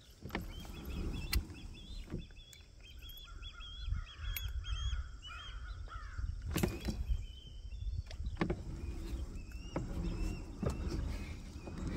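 Birds calling over open water: quick repeated calls early on give way to a run of downward-sliding calls in the middle, then scattered calls near the end. Under them a steady low rumble, with a few sharp knocks, the loudest a little past halfway.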